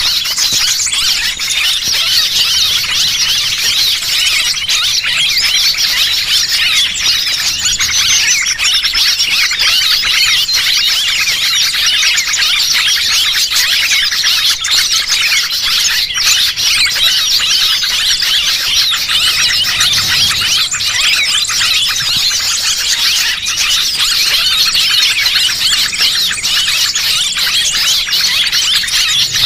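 Small-bird lure call: a dense, unbroken chorus of high-pitched chirps and twitters from many small birds at once, the kind of track played to draw small wild birds in.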